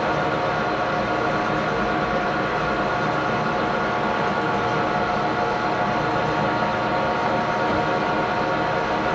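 Metal lathe running steadily while turning a part, an even machine noise with a constant whine of several steady tones and no pauses.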